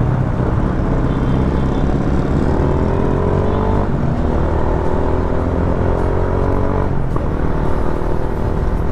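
Yamaha Sniper 150's single-cylinder four-stroke engine accelerating through the gears. Its note rises, drops at a shift about four seconds in, rises again, drops near seven seconds and climbs once more, over a steady low rumble.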